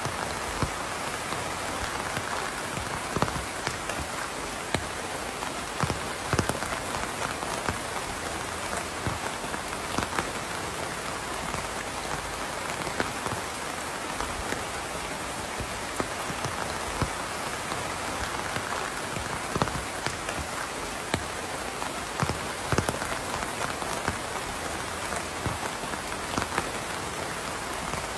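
Steady rain falling, a constant hiss with frequent separate drops ticking loudly on a hard surface.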